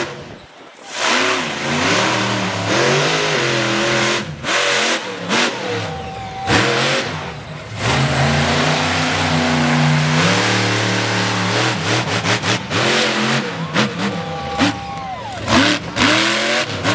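Monster truck engine revving hard, its pitch climbing and falling again and again, held steady at high revs for a few seconds in the middle.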